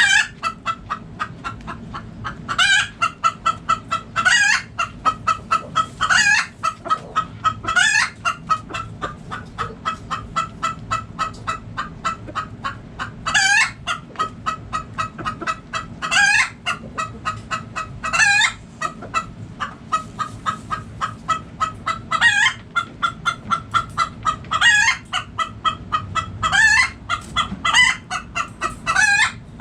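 Backyard chickens clucking in a rapid, steady patter, with short, sharp, loud calls cutting through every second or two.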